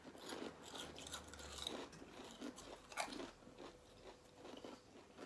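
Spicy crisps being chewed: faint, irregular crunching.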